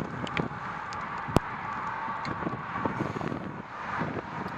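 Cars passing on the road, a steady rush of tyre and engine noise, with wind buffeting the microphone. A single sharp click about a second and a half in.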